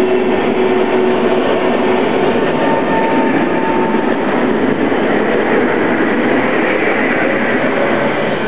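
Tatra T3-type tram running along the rails, a steady rumbling rail noise with faint whining tones.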